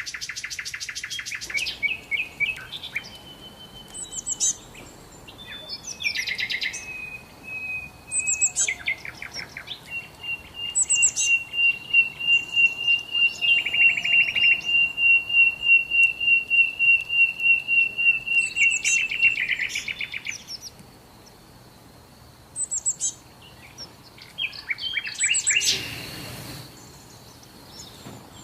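Songbirds singing outdoors: short chirps and trills from several birds, with one long, rapid, even trill held for about nine seconds in the middle. A short burst of noise comes near the end.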